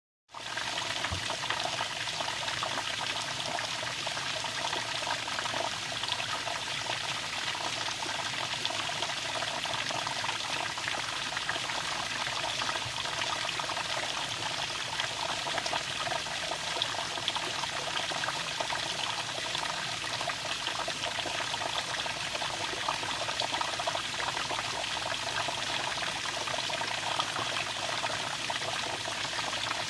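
Running water flowing steadily, a constant dense splashing.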